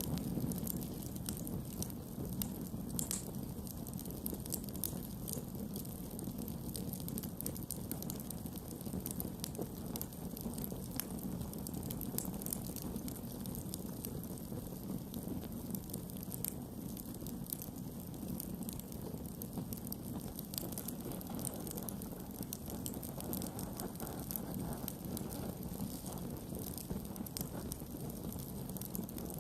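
Campfire burning, with frequent sharp crackles and pops over a steady low rush of flame.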